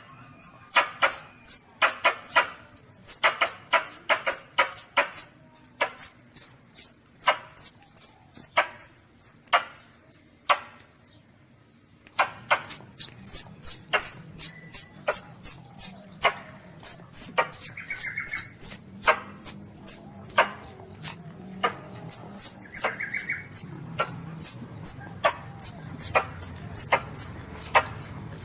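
Asian palm civet kitten calling: a fast series of short, very high-pitched squeaks that drop in pitch, about two to three a second, with a pause of about a second and a half near the middle.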